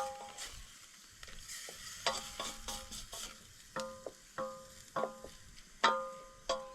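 A metal utensil clinking against a metal pot or pan about a dozen times in an uneven rhythm, each strike ringing briefly, over a faint steady hiss.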